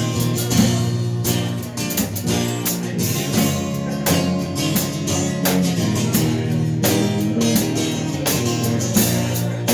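Live blues band playing an instrumental passage led by guitar, with bass and drums keeping a steady beat.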